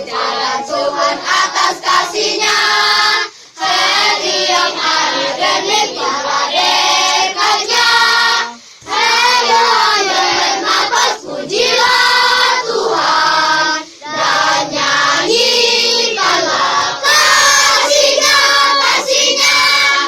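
Choir singing a church song in rehearsal, in sung phrases with brief pauses between them.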